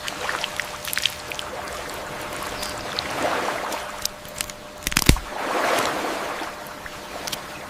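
Water splashing and sloshing, swelling twice, with scattered sharp clicks and a loud knock about five seconds in.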